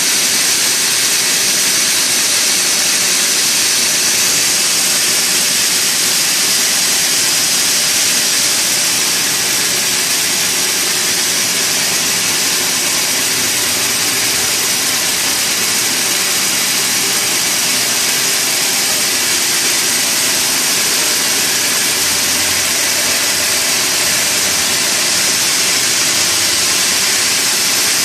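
Sawmill machinery running steadily: a loud, even, hissing machine noise with no breaks or changes.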